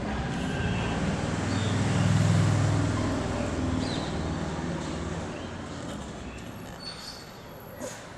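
A passing vehicle's low engine rumble swells to its loudest about two seconds in, then slowly fades away. A few short bird chirps sound over it.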